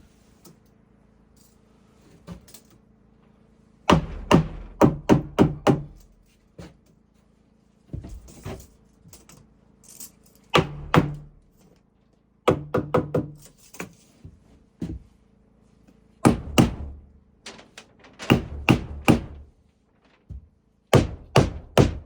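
Hammer driving nails into wooden door framing: quick runs of four to six blows, about four a second, repeated every few seconds.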